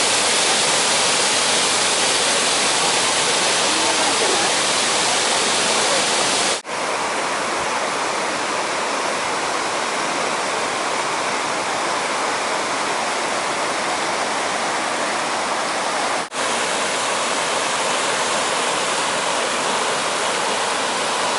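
Fukiware Falls, a waterfall: a steady, dense rush of falling water. The sound cuts out for an instant twice, about 7 and 16 seconds in, and picks straight up again.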